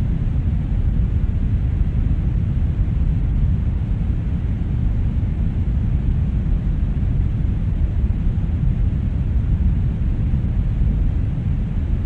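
Steady brown noise: a constant deep rumble-like hiss, strongest in the bass and falling away toward the treble, with no changes.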